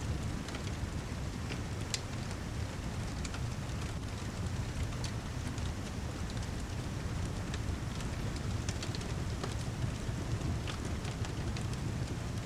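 Steady heavy rain as a low, even rush, mixed with a fireplace's scattered sharp crackles and pops.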